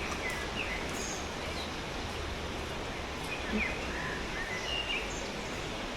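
Small birds chirping, a scattered series of short high calls, over a steady rushing background noise.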